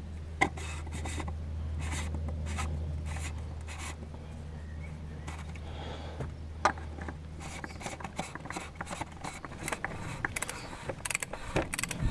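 Hand work on the oil filter and its housing: scraping and rubbing with scattered sharp clicks, the clicks coming thicker near the end. Under it a low steady hum that stops about ten seconds in.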